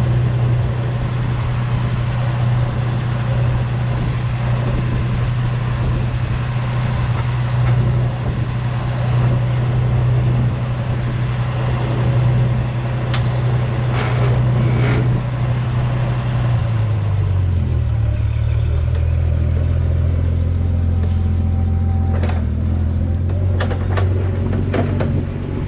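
A vehicle engine running steadily, with its pitch dropping and settling lower about two-thirds of the way through. A few sharp knocks come shortly before the drop.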